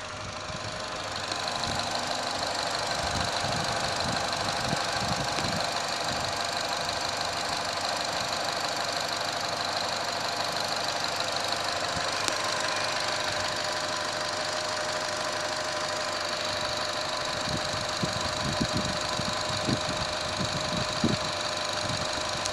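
2017 Holden Trax's 1.4-litre turbocharged four-cylinder petrol engine idling steadily, heard from over the open engine bay, with a steady high-pitched whine running through the engine note.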